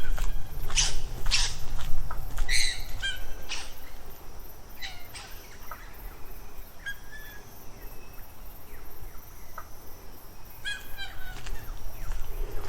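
Wild birds calling: several loud, harsh calls in the first few seconds, then scattered short chirps, and quick runs of rapidly repeated notes at the start and again near the end.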